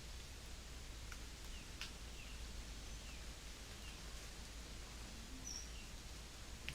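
Quiet rural outdoor ambience: a steady low rumble with scattered brief bird chirps and a few faint ticks.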